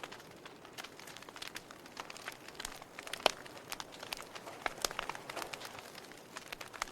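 Wood fire in a fireplace crackling, with irregular sharp pops over a soft hiss of the flames; the loudest pop comes about three seconds in.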